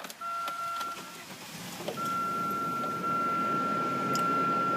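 Buick cold start: the engine catches about two seconds in and settles into a steady fast idle. A steady high-pitched warning chime sounds over it, cutting out briefly as the engine starts.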